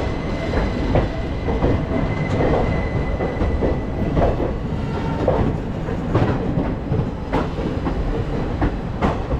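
Two Indian Railways passenger trains passing each other on adjacent tracks, heard from an open coach doorway: a steady rumble of wheels with repeated clickety-clack over the rail joints.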